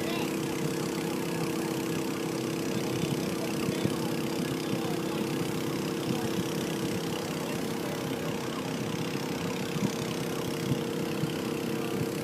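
An engine running steadily at idle, an even hum with a few held tones that do not change in pitch.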